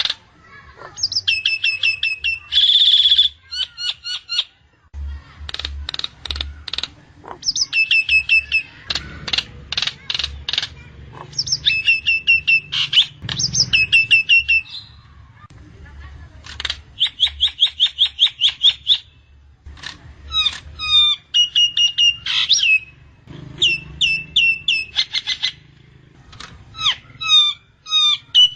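Nias hill myna calling: phrases of rapid, sharp repeated notes, clicks and short whistles, each a second or two long with brief gaps between them, over a faint low hum.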